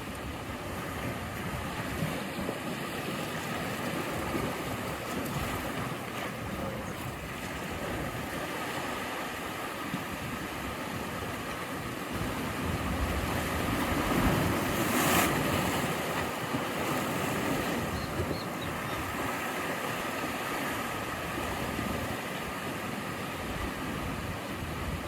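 Ocean surf washing against the shore as a steady rush of water noise, with one wave swelling louder about two thirds of the way through.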